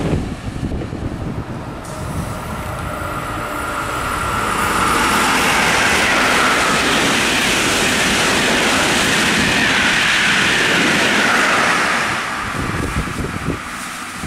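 Passenger train passing through the station at speed: a rush of wheels on rail that builds over the first few seconds, stays loud for about seven seconds and fades near the end.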